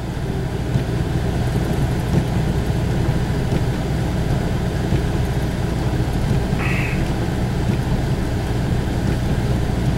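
Steady low drone of a four-wheel-drive vehicle's engine and drivetrain, heard from inside the cab while it creeps along slowly. A short high-pitched squeak comes about seven seconds in.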